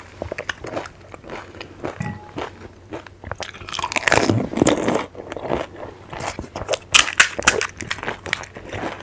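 Crisp panipuri (golgappa) shells being bitten and chewed, close to the microphone: irregular crunching, loudest about four seconds in as a whole puri goes into the mouth, with sharp cracks around seven seconds.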